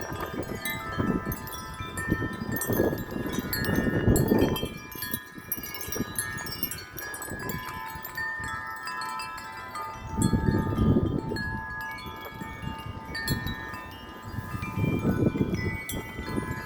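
Several tuned wind chimes ringing continuously in strong gusty wind, many overlapping notes sustaining. Low gusts of wind rumble on the microphone about two to four seconds in, again around ten seconds, and near the end.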